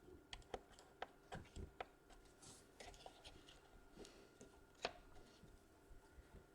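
Faint scattered clicks and taps of small plastic and metal laptop parts being handled as a replacement DC power jack and its bracket are pressed into place, with one sharper click about five seconds in. A faint steady hum sits underneath.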